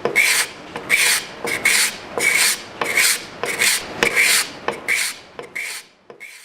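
Freshly sharpened cabinet scraper being pushed across wood in quick repeated strokes, about two to three a second, each a short rasping hiss. The strokes grow quieter near the end and then stop.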